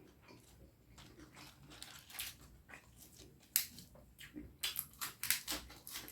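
Close-miked eating sounds of a person chewing curry and rice: wet chewing with lip smacks, a sharp smack about three and a half seconds in and a quick run of smacks near the end.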